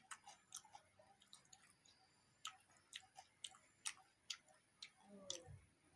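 Faint, sharp clicks at irregular spacing, about one or two a second, over near silence.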